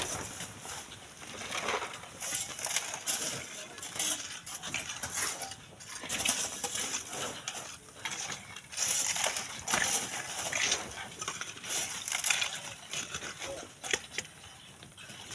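Irregular scraping and clinking of hand tools digging into sand and stones, a string of short strokes a second or so apart.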